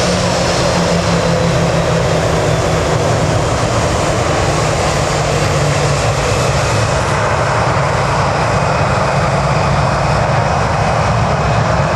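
Jet airliner's engines, loud and steady: a dense roar with a low engine drone and a faint high whine, as the aircraft runs at close range on the runway.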